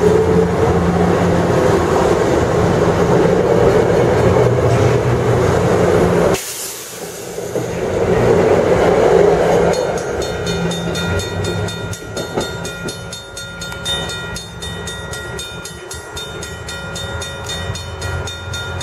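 Metro-North M4 and M2 electric multiple-unit commuter train running past close by: wheels rumbling on the rails, with a motor whine rising in pitch at the start. The sound drops suddenly about six seconds in, then goes on quieter with a few steady whining tones.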